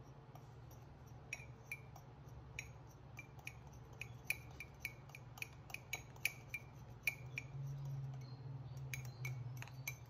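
A red plastic measuring cup tapped against the rim of an enamel mug to empty it: a string of light clinks, irregular at about two or three a second. A faint low hum runs underneath.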